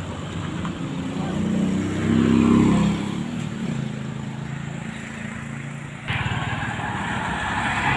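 Diesel truck engine revving up, its pitch rising and falling back, then running steadily. About six seconds in, a louder rushing noise starts suddenly over it.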